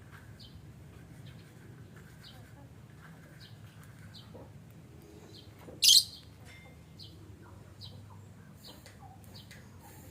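Lovebirds giving a series of short, high chirps, with one much louder, sharp call about six seconds in.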